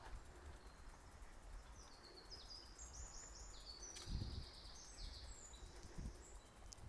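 A small songbird singing a quick run of short, high, downward-sweeping notes, starting about two seconds in and lasting about three seconds, with a couple of faint low thuds over a steady low background rumble.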